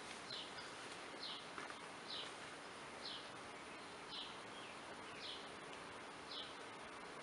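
A bird repeating a short, high, downward-sliding note about once a second, over the faint steady hum of honey bees at an open hive.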